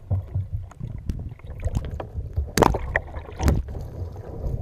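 Water sloshing and splashing around a kayak, over a low rumble on the microphone, with two sharp splashing hits about a second apart past halfway.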